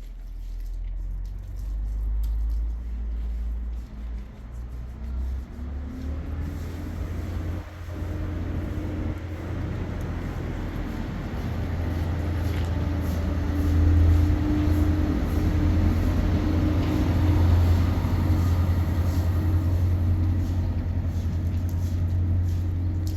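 An engine running, its pitch rising over the first several seconds and then holding steady.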